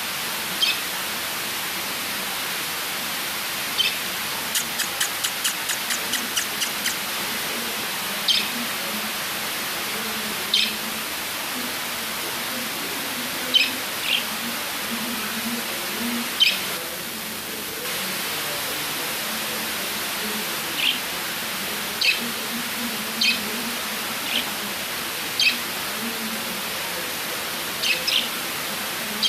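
Lovebirds giving short, shrill chirps every second or few, with a quick run of about ten rapid chirps around five seconds in, over a steady hiss.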